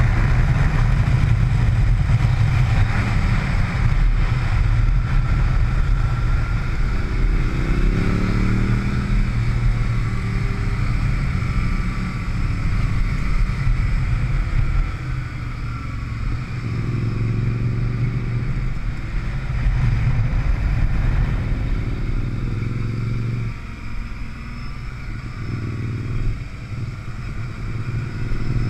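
Motorcycle engine on a track lap, heard from on the bike, the engine note climbing under throttle and stepping down several times as the rider shifts and rolls off for corners, over a heavy low rush of air. The level drops away for a few seconds about two thirds through, then picks up again near the end.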